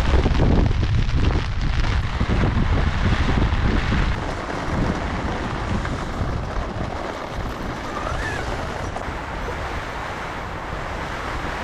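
Storm wind gusting with heavy rain. Gusts buffet the microphone with a low rumble for the first four seconds, then ease into a steadier rush of wind and rain.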